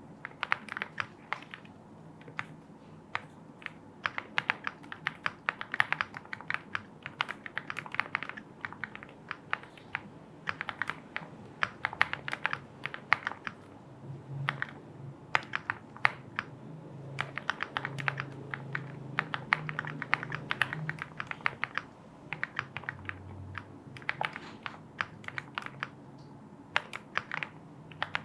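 Typing on a Lucky 65 aluminium-case mechanical keyboard: fast runs of keystrokes in bursts, with short pauses between them.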